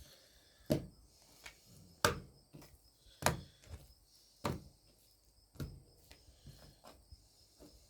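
Raw, oil-slathered pork chops being flipped and set down one after another, a short sharp slap or knock about once a second with a few lighter taps between.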